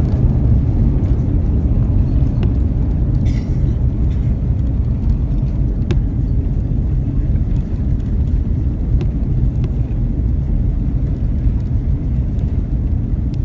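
Steady low rumble inside the cabin of a Finnair Airbus A350-900 during its landing, with a few faint clicks and a short hiss about three seconds in.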